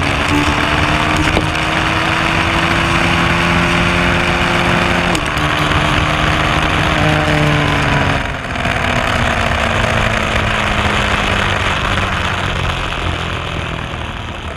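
Suzuki SV650's V-twin engine pulling hard down the strip, its pitch rising slowly with a step down at shifts about five and seven seconds in. About eight seconds in the throttle closes and the pitch falls steadily as the bike slows. Heavy wind noise on the bike-mounted camera runs throughout.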